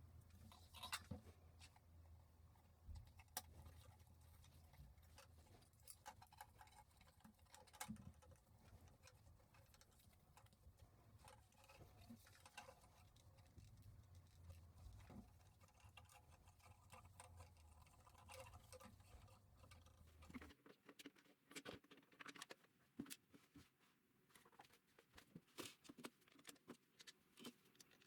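Faint handling noise: scattered light clicks and taps of small parts being handled. A low hum under them cuts off suddenly about twenty seconds in.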